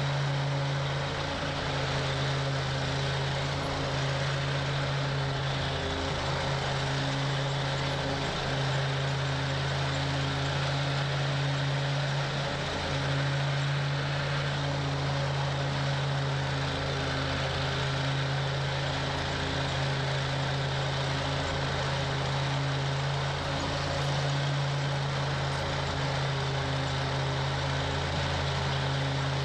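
Toro Grand Stand stand-on mower's engine running steadily at a constant speed, with a continuous low hum.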